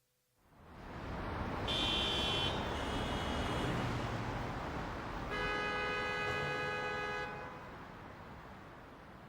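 Street traffic fading in, with a car horn sounding twice: a short toot about two seconds in and a longer blast around the middle.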